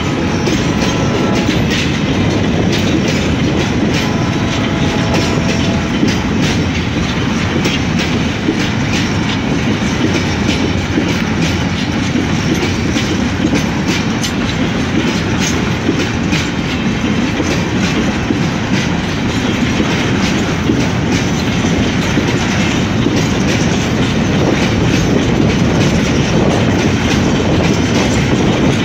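Freight wagons of a long grain train rolling past, their steel wheels clattering over the rail joints in a continuous, loud clickety-clack.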